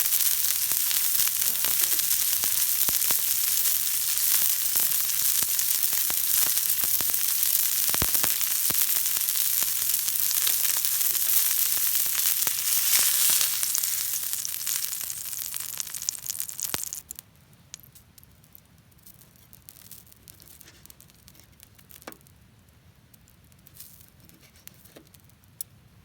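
Food frying in hot fat: a steady sizzling hiss with fine crackles and spits, fading and then cutting off sharply about seventeen seconds in, leaving only faint scattered ticks.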